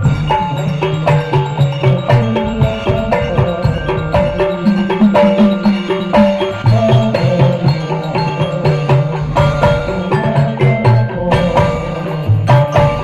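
Instrumental passage of hadrah sholawat music: hand drums and kendang keep a fast, dense beat under a melodic line of short repeated notes.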